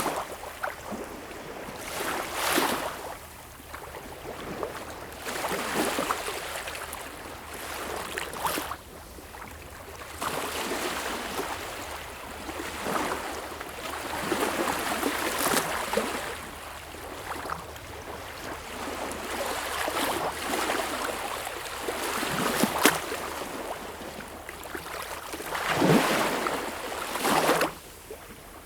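Sea waves washing in and splashing, swelling in irregular surges every two to three seconds, with sharper slaps of water now and then.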